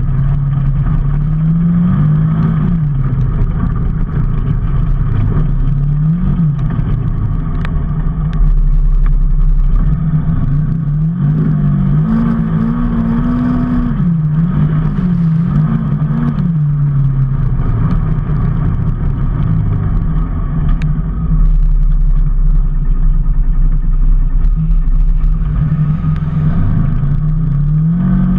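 A motor vehicle's engine running while under way, its pitch rising and falling repeatedly as it speeds up and eases off, over a steady low rumble of wind and road noise.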